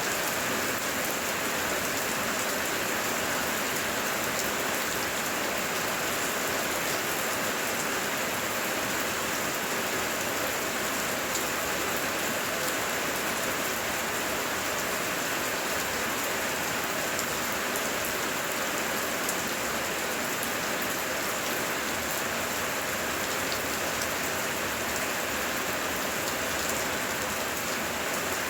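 Steady heavy rain, an even hiss of many drops falling without letting up.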